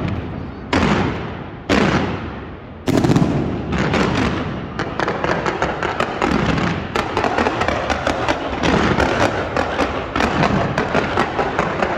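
Fireworks going off: three loud bangs about a second apart, each fading away in a long echo, then a dense, rapid crackling of many small reports.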